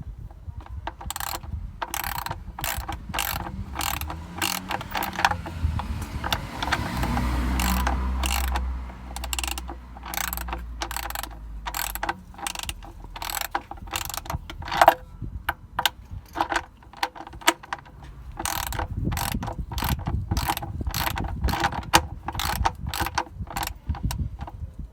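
Socket ratchet clicking as the engine-oil drain bolt is screwed back into the sump, in runs of about two clicks a second with short pauses between.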